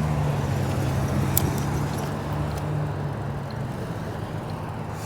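Motor vehicle running on the road: a steady low engine hum with tyre and road noise that slowly fades as it moves away.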